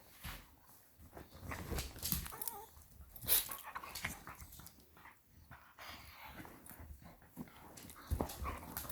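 Two dogs, one of them a beagle, play-fighting: scuffling and rustling against a chair cover, with snuffling and a few soft growling and whimpering noises, and a sharper knock about three seconds in.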